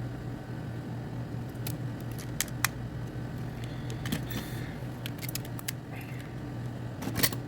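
Light, sharp clicks and taps, scattered and clustering near the end, from a smartphone and small tools being handled during a screen replacement, over a steady low hum.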